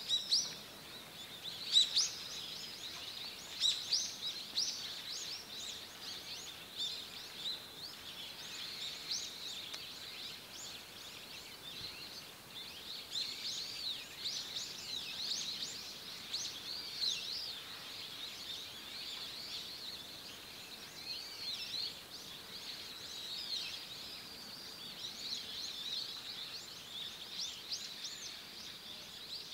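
Small forest birds calling, a steady stream of short high chirps and twitters with several birds overlapping, over faint forest ambience. The calls are loudest and most frequent in the first few seconds.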